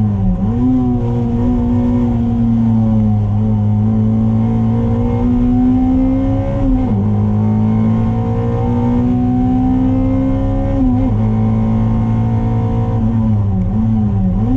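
Toyota MR2's 2ZZ-GE 1.8-litre four-cylinder engine driven hard on track, heard from inside the cabin. The revs climb steadily and drop quickly at gear changes about 7 and 11 seconds in, then dip and rise again near the end, over a steady drone of road and wind noise.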